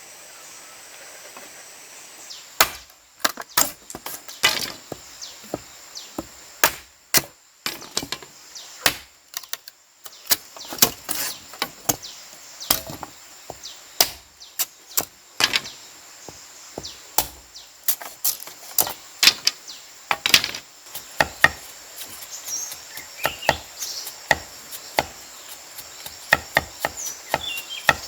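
Irregular sharp chopping knocks, often several a second, over a steady high-pitched insect drone.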